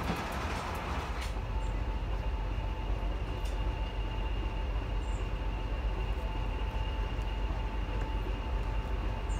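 Train of passenger coaches running on the rails with wheel noise and clicks for about the first second. It then settles into a steady deep diesel rumble with a thin high whine as the train stands at the platform.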